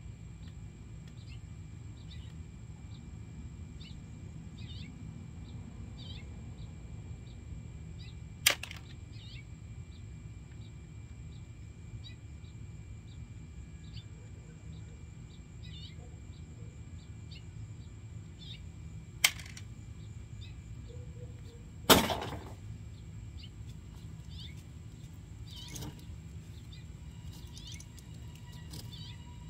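Small birds chirping again and again over a steady low background rumble. Three sharp knocks cut in, about a third of the way in, about two-thirds in, and a louder one soon after.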